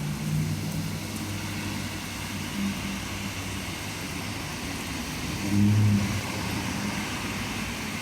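Steady low hum of a motor vehicle's engine running, swelling briefly about five and a half seconds in, over a steady hiss.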